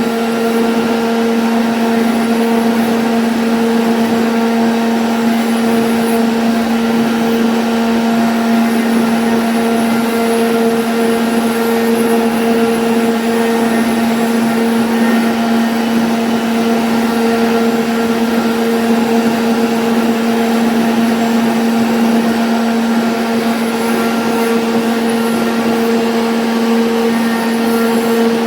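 CNC router spindle running at a steady whine while cutting a jali pattern, with the hiss of the bit working through the board.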